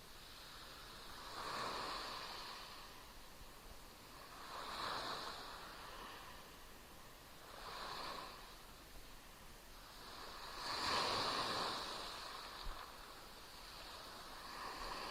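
Small Black Sea waves splashing and washing on the shore. Each wash swells and fades about every three seconds, the loudest a little past halfway. A single short click comes just after that loudest wash.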